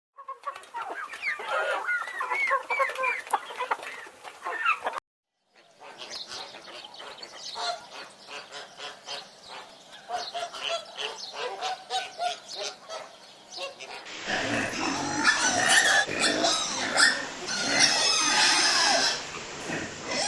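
Farm poultry calling, geese honking and chickens clucking, in three short clips cut together. The last clip is the loudest and busiest.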